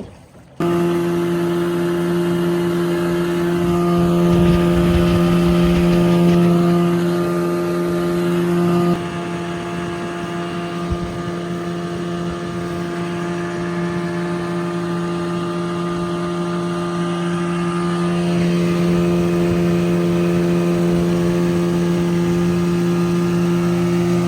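Two-stroke outboard motor running at a steady speed, with a boat underway. It holds an even pitch, with an abrupt slight drop in level and tone change about nine seconds in.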